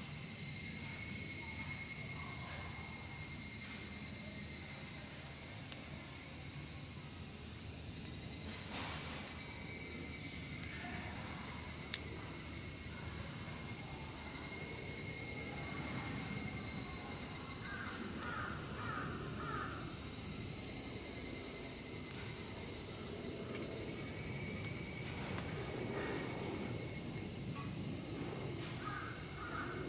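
Steady high-pitched chorus of summer insects chirring, with a few short bird calls about midway and again near the end.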